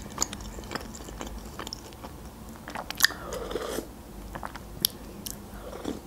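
Close-miked chewing and eating mouth sounds: soft wet chewing with scattered sharp clicks, the sharpest about three seconds in.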